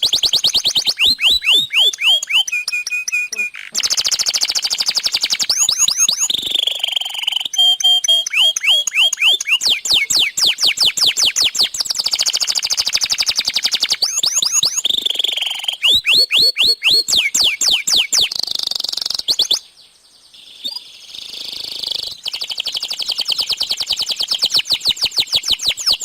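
Domestic canary singing vigorously: a long, unbroken song of rapidly repeated high trills and sweeping phrases that change every few seconds, with a short lull about twenty seconds in.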